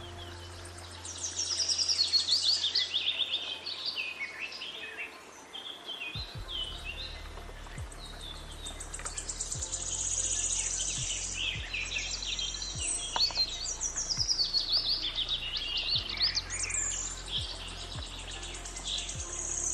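Several birds singing and chirping in quick trills and falling phrases, overlapping throughout. A faint low hum with soft, evenly spaced ticks runs beneath from about six seconds in.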